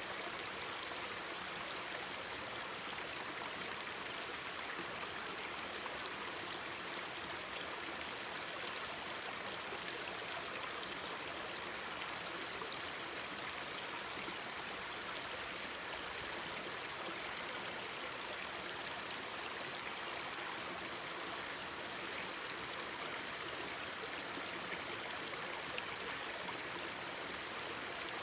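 Mountain stream babbling steadily over rocks, an even rushing of water with a few faint ticks near the end.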